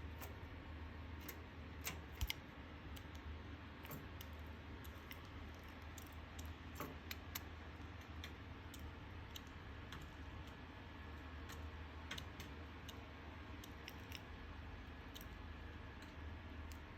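Zebra finches moving about in their cage: faint, irregular light clicks and ticks, a few slightly louder about two seconds in, over a low steady hum.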